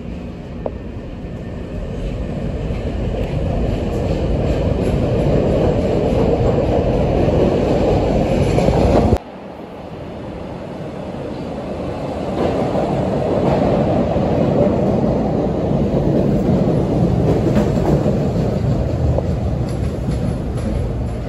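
CTA 'L' rapid-transit train running close by: a dense rumble of wheels on rail and traction equipment that grows louder, breaks off abruptly about nine seconds in, then builds up again as a train moves past.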